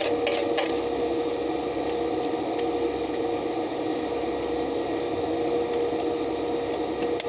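Stick (shielded metal arc) welding: the arc crackling and sizzling steadily over a steady hum.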